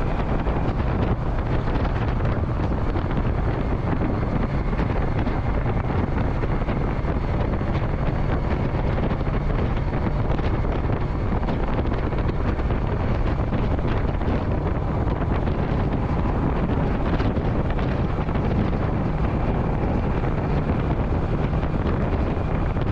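Wind rushing over the microphone of a motorcycle riding at speed, with the engine's steady drone underneath. It cuts off abruptly at the very end.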